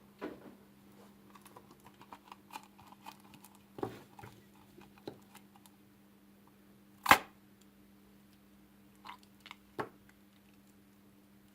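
Slime being handled with small sticky clicks and crackles, and one sharp, loud pop about seven seconds in: a balloon bursting in the slime. A few softer clicks follow near the end.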